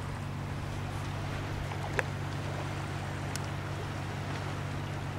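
Steady low drone of a boat engine running, with one sharp click about two seconds in.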